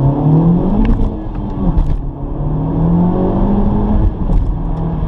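Honda Civic Type R (FK8) 2.0-litre turbocharged four-cylinder engine pulling under acceleration, heard from inside the cabin. Its pitch climbs, falls back about two seconds in, then climbs again.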